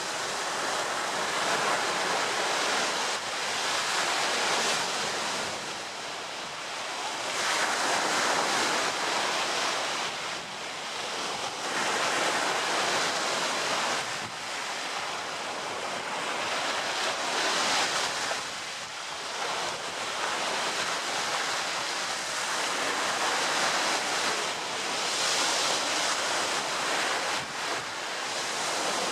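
Ocean surf: waves breaking and washing in continuously, swelling and easing every five seconds or so.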